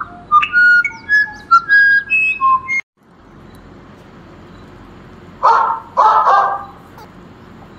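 A quick run of clear whistled notes, hopping between pitches, that cuts off abruptly under three seconds in. Later a dog barks twice in quick succession.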